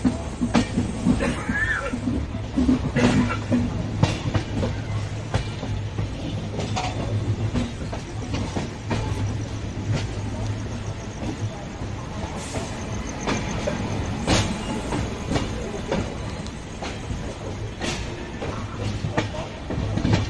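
Express passenger train running over points and crossings as it pulls into a station, heard from aboard: a steady low rumble with irregular sharp clacks of the wheels over rail joints and crossings, and a brief faint wheel squeal near the start.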